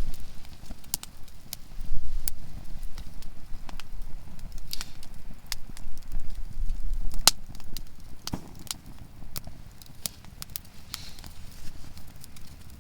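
Conifer firewood burning in a campfire, crackling, with sharp pops at irregular intervals (the loudest about seven seconds in) over a low rumble.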